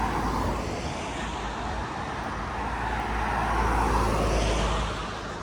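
A vehicle passing on the road, its tyre and engine noise swelling to its loudest about four seconds in and then fading away.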